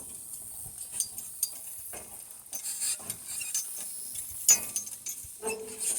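Harnessed donkey team walking through grass: the harness hardware clinks and the grass rustles, with scattered small clicks and one sharper click about four and a half seconds in.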